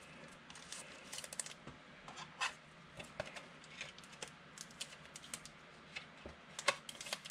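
Trading cards being handled and flicked through by hand, a run of small irregular clicks and scrapes as the cards slide against each other.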